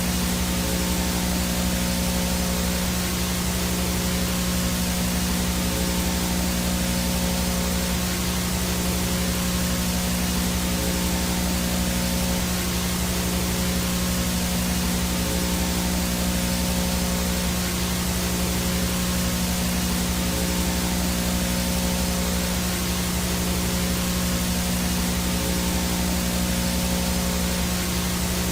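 VHS static: a steady, even hiss of analog video noise with a low electrical hum and buzz beneath it, unchanging throughout.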